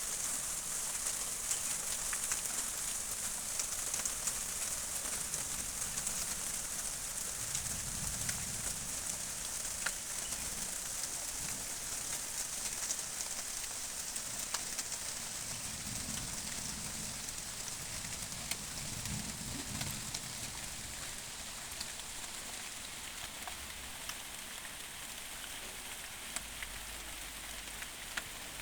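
Steady rain falling on foliage, a continuous hiss with many small drop ticks. A few low rumbles come and go about a third and two thirds of the way through.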